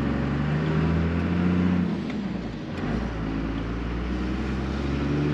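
1997 Dodge 2500's 5.9 L 12-valve Cummins turbo-diesel pulling under load through the gears of a freshly swapped NV4500 manual. The engine note rises, drops sharply about two seconds in at a gearshift, then rises again.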